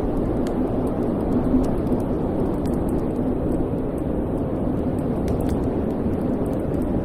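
Wood fire burning in a fireplace: a steady low roar of flames with faint, scattered crackles and pops throughout.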